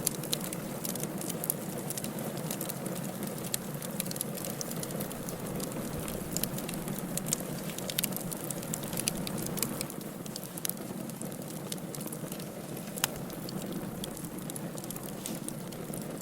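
Firewood burning in a fireplace: a steady hiss and rumble of flames with irregular crackles and small pops from the wood, one sharper pop about thirteen seconds in.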